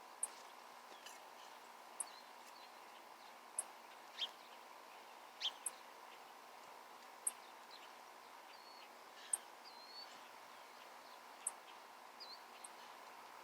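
Small birds calling: a very high, thin chip repeated about every one to two seconds, with a few short lower whistled and down-slurred notes in between.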